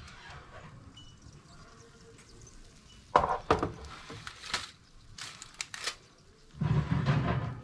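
Kitchen handling sounds: a few sharp knocks and clatters about three seconds in, quick light rattles a little later, then a louder scraping or rustling burst near the end.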